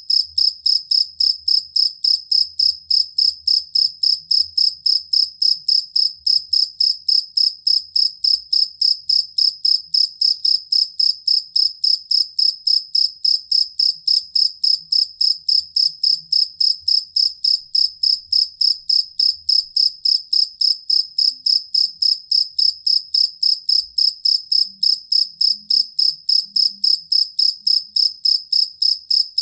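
Jangkrik kalung field cricket singing a steady, evenly repeating chirp, about three chirps a second on one high pitch.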